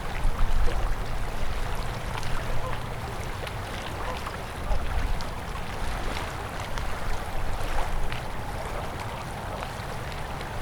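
Open winter river flowing, a steady rush of water with many small splashes and gurgles.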